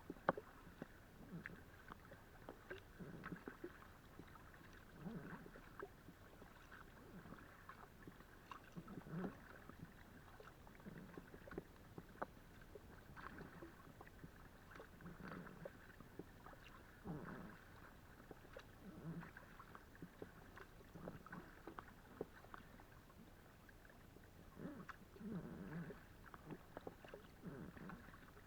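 Kayak paddle strokes in the water, soft and regular at about one stroke every two seconds, with small clicks and drips between them. Picked up by a camera mounted on the Decathlon Itiwit X500 kayak's hull.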